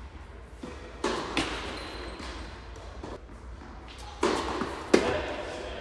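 Tennis ball struck with rackets during a point: two sharp hits, about a second in and again about five seconds in, each just after a short rush of noise.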